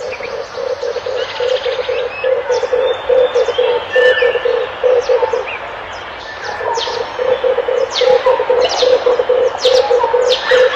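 Red turtle dove cooing: a long run of low, evenly pulsed coos, broken by a short pause about halfway through, then resuming. Other small birds chirp with quick, high calls over it.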